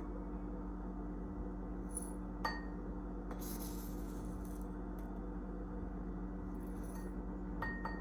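Steady low hum of a room or appliance, with two light clinks that ring briefly, one about two and a half seconds in and one near the end, like glass or ceramic being touched.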